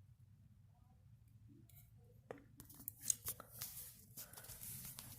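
Quiet at first, then from about two seconds in a crackling, rustling noise with sharp clicks that grows louder: high wind gusting against and jostling a box.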